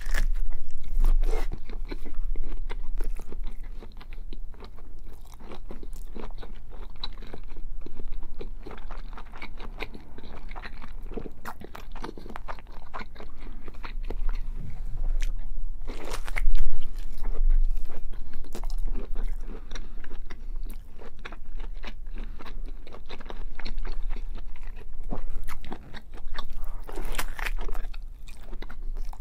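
A person biting and chewing a large block of bacon: continuous chewing with many small clicks and smacks, and louder bursts about sixteen seconds in and again near the end.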